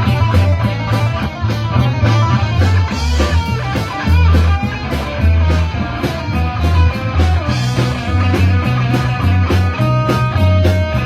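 Rock band playing an instrumental passage: electric guitar over bass and a drum kit, with no singing.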